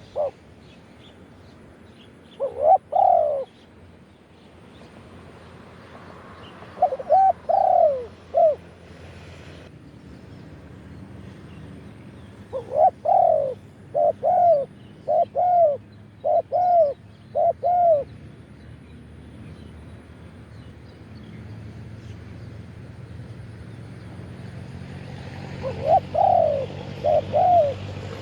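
Spotted dove cooing in short phrases of arched, hooting notes, with a longer run of about six coos in the middle. A low vehicle rumble grows near the end.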